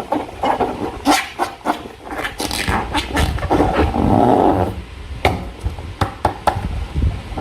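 Slime being squeezed and worked by hand inside or around a balloon. It makes irregular wet, sticky squelches and sharp clicks, with a longer squelching stretch about halfway through.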